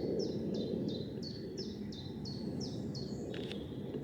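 A small songbird singing a run of about nine short, quick notes, each falling in pitch, about three a second, over a steady low background rumble of outdoor noise.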